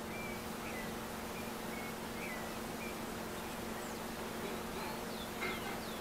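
Faint background birds chirping, short calls about every half second, with a few higher, falling calls about five seconds in, over a steady low hum and hiss.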